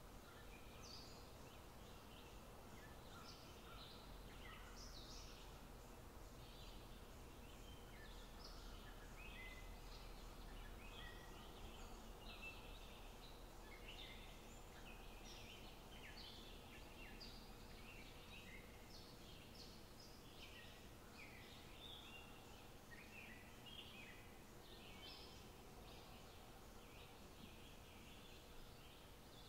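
Faint high bird chirps, many short notes scattered throughout, over a steady low background noise and faint hum.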